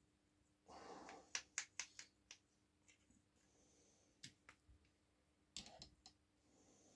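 A soft rustle, then a quick run of about six sharp clicks and taps within a second, with a few more scattered clicks later: small engine parts being handled and tapped while working a tight wrist pin into a piston.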